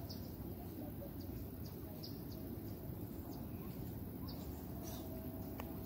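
Birds calling in scattered short, high chirps over a low steady rumble.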